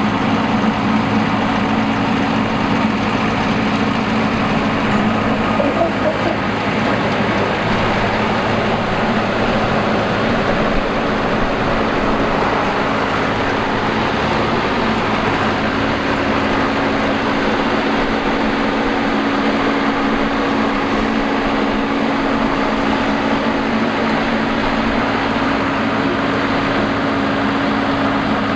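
Rice combine harvester running steadily, a constant engine drone with a dense mechanical rush over it.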